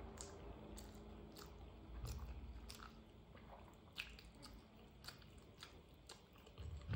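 Quiet chewing of a mouthful of rice and curry, with scattered wet mouth clicks and smacks.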